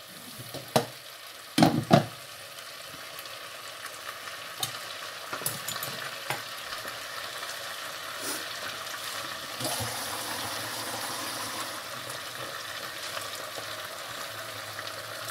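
Potatoes and taro root (arbi) sizzling steadily as they fry in a steel pot, with a few sharp knocks in the first two seconds.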